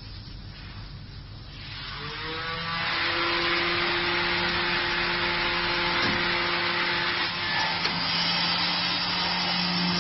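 Spindle motors of a 12-head CNC wood-carving router spinning up with a rising whine about two seconds in, then running steadily: a held whine over a dense rushing hiss.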